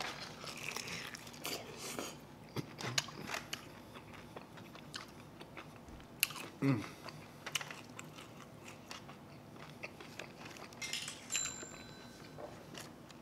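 Close-miked chewing and biting into a sauced chicken wing: wet mouth smacks and small crunchy clicks. A short hum partway through.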